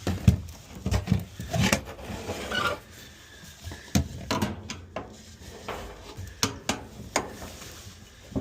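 A series of irregular knocks, clatters and scrapes as hard objects are handled and moved.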